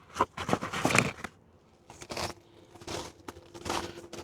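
Handling noises while working on the headlight assembly: a quick run of small clicks and knocks, then a few short rustles.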